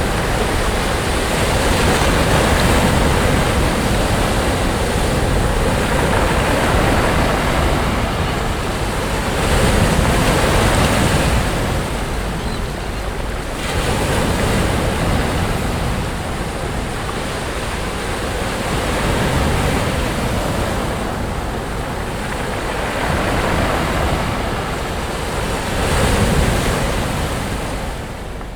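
Sea waves breaking and washing up a beach, the surf swelling and falling every few seconds, with a steady low wind rumble on the microphone.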